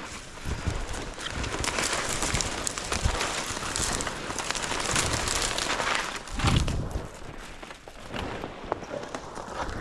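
Someone walking through snow and brush: crunching steps and rustling, with wind on the microphone.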